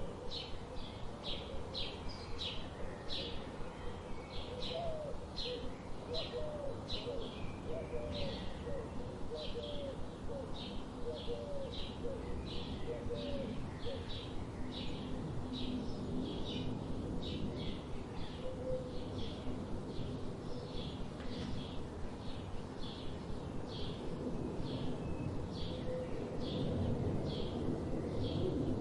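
A small bird chirping over and over, short high chirps about twice a second, with a lower, hooked call repeating alongside during the first half, over steady outdoor background noise.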